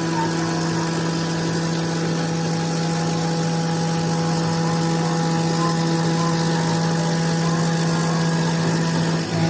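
TechPro 6090 hobby CNC router cutting acrylic: its spindle runs with a steady hum and whine over a continuous hiss of the bit milling the plastic, with a small dip near the end.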